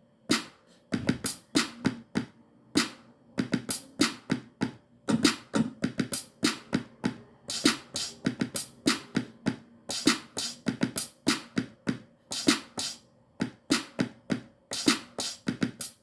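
Programmed drum beat playing back from an Akai MPC One: a steady pattern of sharp drum hits, several a second, over a held low tone.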